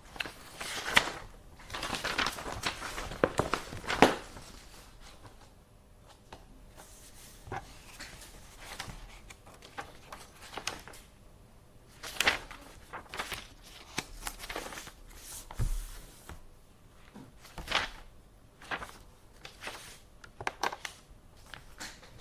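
Paper being handled and rustled, with scattered sharp clicks and light knocks; busiest in the first four seconds, then occasional short rustles.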